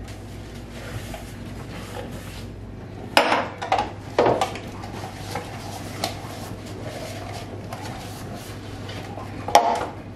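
Dishes and cutlery being handled in a kitchen, with a few sharp clinks and clatters, several about three to four seconds in and the loudest near the end, over a low steady hum.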